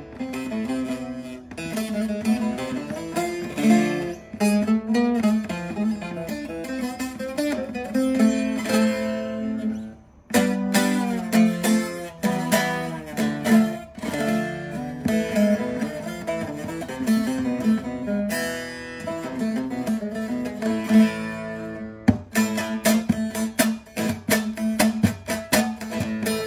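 Bağlama (long-necked Turkish saz) played with a plectrum in improvised runs of quick plucked notes. The playing breaks off briefly about ten seconds in, then picks up with fast, dense strokes near the end.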